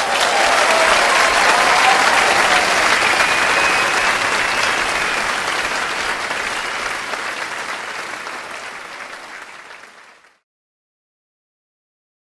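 Concert audience applauding, loud at first and gradually dying away over about ten seconds, then cut off into complete silence.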